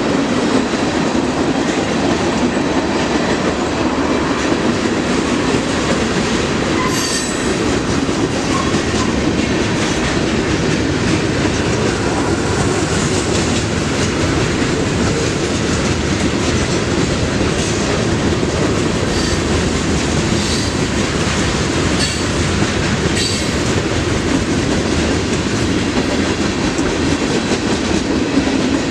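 Train rolling past at close range, a steady rumble of wheels on the rail with clickety-clack from the rail joints. Brief high wheel squeals come once about seven seconds in and several times around twenty seconds in.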